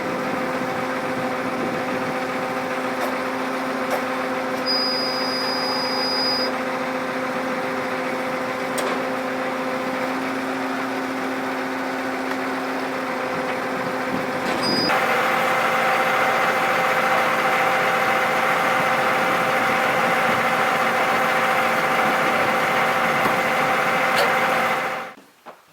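Steady engine drone with several fixed hum tones. About 15 seconds in it steps up louder and its pitch shifts, and it cuts off abruptly just before the end.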